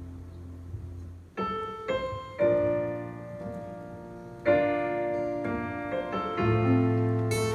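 Piano playing slow chords, each struck and left to ring, with a new chord about every one to two seconds.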